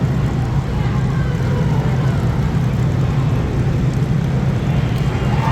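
Engines of compact race cars running together in a steady, unbroken drone.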